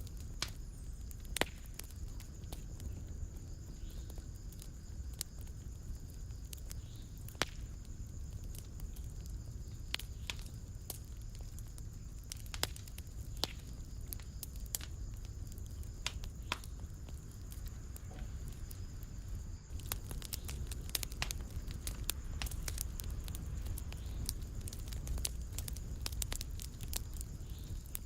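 Wood fire burning in a fireplace, crackling with irregular sharp pops every second or two over a low, steady rumble of the flames.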